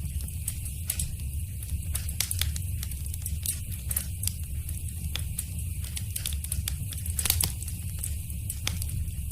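Wood fire in a fireplace crackling, with frequent irregular sharp pops over a steady low rumble of the flames. A louder pop comes about two-thirds of the way through.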